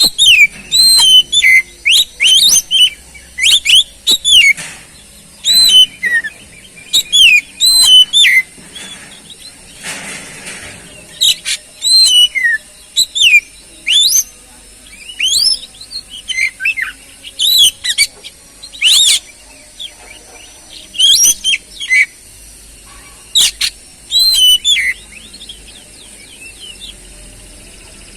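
Oriental magpie-robin (kacer) singing: loud bursts of varied whistled notes and quick sweeping phrases separated by short pauses, stopping a few seconds before the end.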